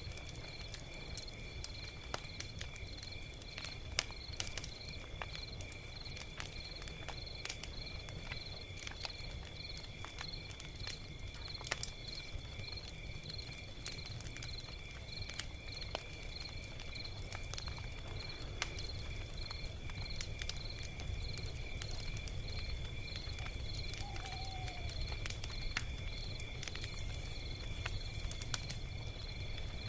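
Log fire crackling, with irregular sharp snaps and pops over a low steady rumble. A steady, evenly pulsed high chirping, about two pulses a second, runs behind it.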